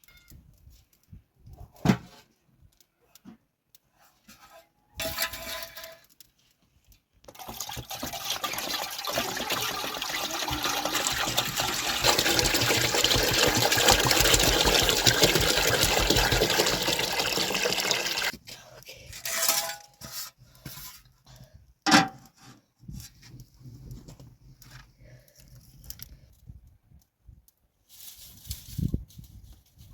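Water pouring or running in a steady stream for about eleven seconds, with a few sharp knocks before and after it.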